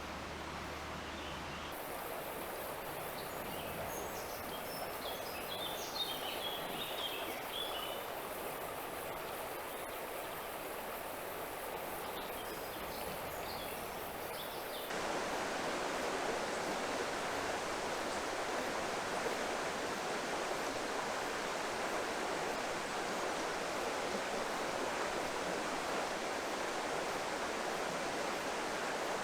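Rushing water of a mountain river, a steady noise that grows suddenly louder about halfway through. A few short high chirps sound several seconds in.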